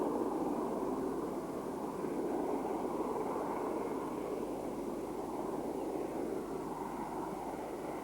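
LNER V2 steam locomotive and its train running, a steady noise without distinct beats that eases a little near the end.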